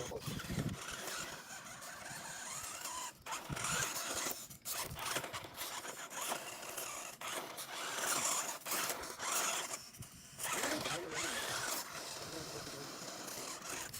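Cheap toy-grade 1/10-scale RC trail truck crawling slowly over rough ground: a rasping, scraping noise from its tyres and drivetrain, with brief pauses about three, four and a half, and ten seconds in.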